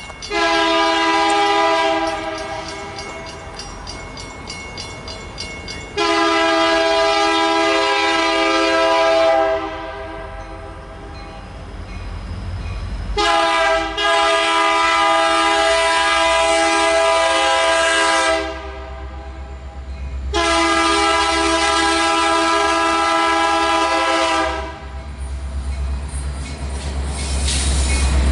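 Freight locomotive's multi-note air horn sounding several long blasts with short gaps between them, while the low rumble of the approaching train builds, loudest near the end.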